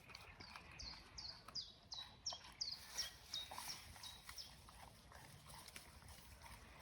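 A songbird singing a phrase of about nine quick, high, down-slurred notes, about three a second, lasting around three seconds, with faint clicks underneath.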